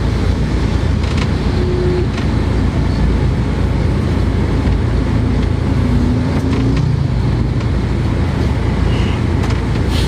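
Steady low rumble of road traffic, with a few brief faint tones and ticks over it.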